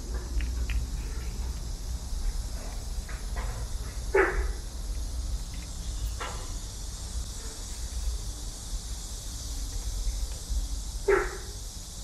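Two short, sharp animal cries, about 4 and 11 seconds in, with a few fainter ones between, over a steady outdoor rumble and hiss.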